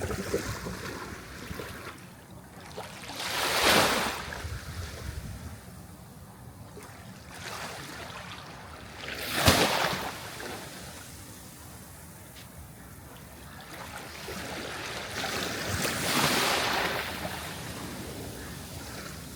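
Sea waves breaking and washing up the shore, three surges about six seconds apart, the middle one, about nine and a half seconds in, the sharpest and loudest.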